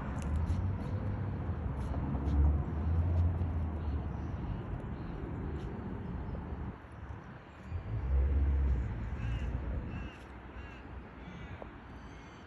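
Harsh, caw-like bird calls over a low rumble, the calls clearest in the second half.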